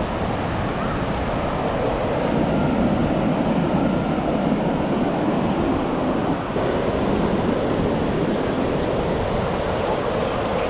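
Ocean surf washing onto a sandy beach in a steady rush, swelling a little in the first half, with wind buffeting the microphone.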